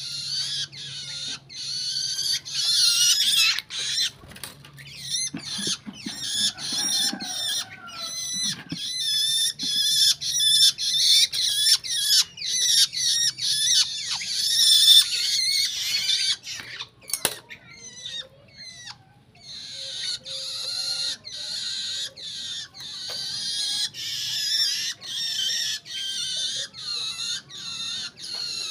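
Young long-tailed shrike, about two months old, calling in long runs of short, high notes repeated several times a second, with a pause of about two seconds just past the middle.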